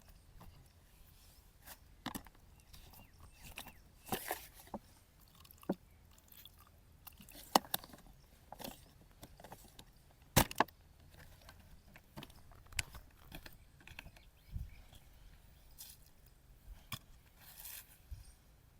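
Straight razor scraping through beard stubble in short, irregular crunchy strokes, with a few sharper clicks.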